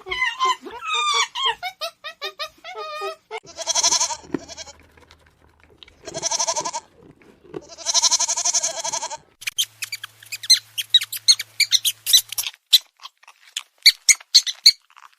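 Goats bleating: three long, wavering bleats at about three and a half, six and eight seconds in. Short squeaky calls come before them, and a quick run of sharp chirps and clicks follows.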